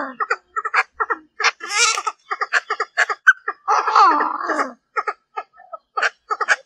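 Hen Chinese francolin (đa đa) calling as a decoy to provoke cock birds: a quick series of short, sharp clucking notes, broken by two longer chattering runs about two and four seconds in.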